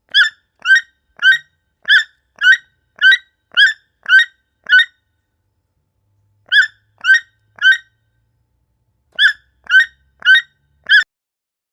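A bird giving short, sharp calls about two a second, in three runs: nine calls, a pause, three calls, a pause, then four.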